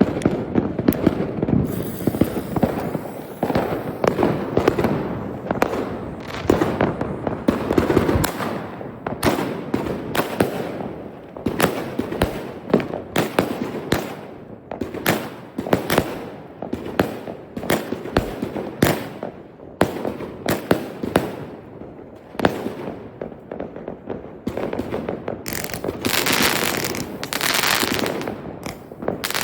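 Consumer fireworks going off in a dense string of bangs and pops, with a stretch of hissing crackle near the end.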